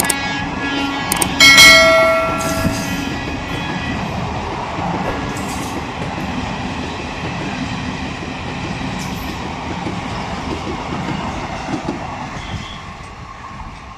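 A passenger train running through a station at speed: the coaches rush past in a steady rumble and clatter, fading near the end as the last coach draws away. About a second and a half in, a train horn sounds loudly for about a second.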